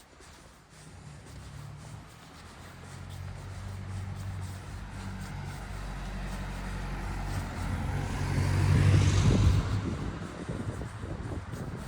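A motor vehicle driving past close by: its engine and tyre noise build steadily, are loudest about nine seconds in, then fade.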